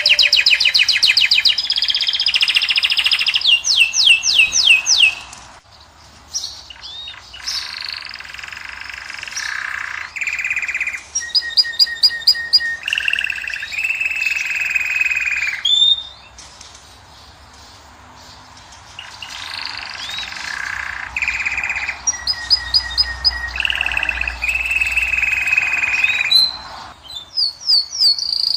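A caged finch singing a long, varied song of rapid trills, runs of evenly repeated notes and clear whistled tones, with two short pauses of a couple of seconds.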